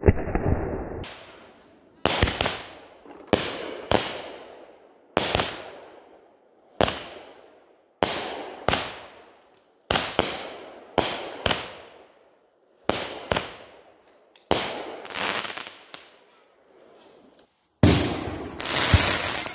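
Multi-shot consumer firework cake firing a string of aerial shots: sharp bangs about one a second, each dying away quickly. There is a short lull near the end, then a quick cluster of bangs.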